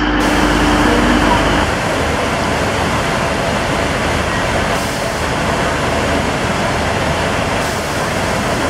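Diesel multiple-unit trains running at the station, a steady, even rumble and hiss. A lower steady hum stops about a second and a half in.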